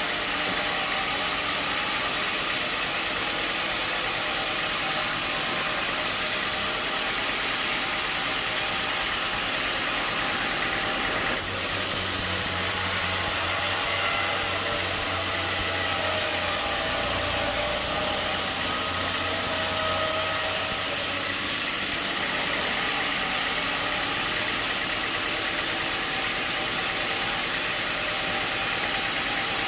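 Sawmill machinery running steadily, a constant mechanical hum and hiss. About a third of the way in the sound changes, with a stronger low hum and brighter hiss, and it returns to the earlier sound about two-thirds of the way through.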